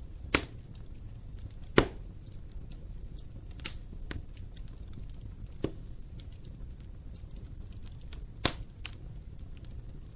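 Wood fire crackling in an open fireplace: a steady low rumble of flames with many small ticks and five sharp pops spread over about ten seconds, the loudest two near the start.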